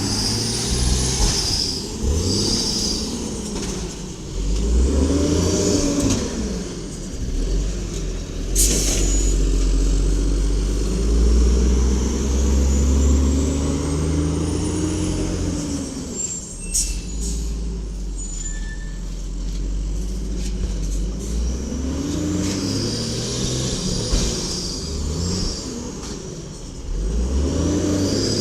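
Cummins L10G natural-gas engine of a 1994 WhiteGMC garbage truck revving up and fall back again and again. A short sharp hiss comes about nine seconds in.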